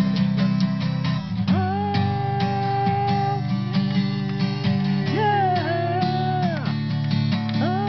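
Guitar music: steady strummed chords under a melody of long held notes that bend and slide in pitch.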